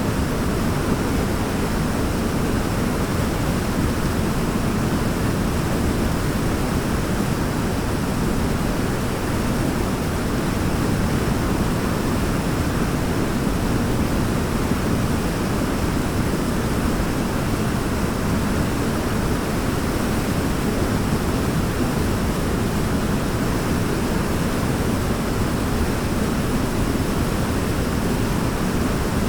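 Waterfall pouring steadily: a dense, even rush of falling water that stays the same throughout.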